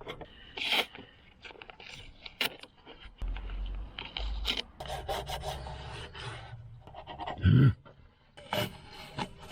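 Hand work on a small sheet-metal part: rubbing and scraping with scattered clicks and light knocks, and one loud thud about seven and a half seconds in.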